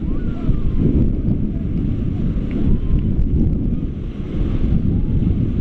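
Wind buffeting the microphone over the steady rush of river water, a loud, constantly fluctuating low rumble.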